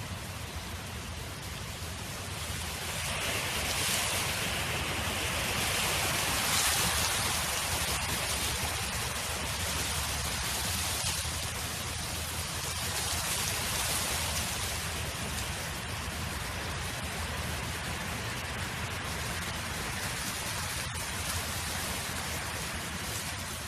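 Wind blowing across an open field, a steady rushing noise that swells in gusts a few seconds in and again about halfway through.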